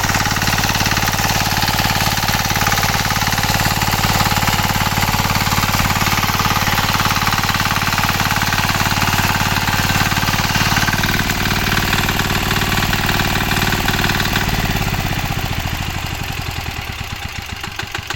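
9 hp Kama single-cylinder engine of a power tiller running steadily with a rapid pulsing beat, then slowing down and getting quieter over the last few seconds.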